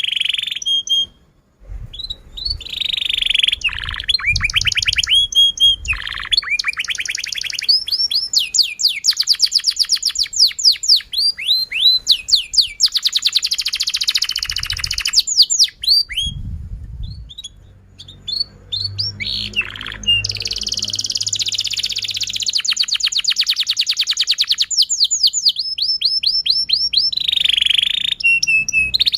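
Domestic canary singing a long, continuous song: fast trills of rapidly repeated down-slurred chirps, changing from one trill to the next, with brief pauses about a second in and around two-thirds of the way through.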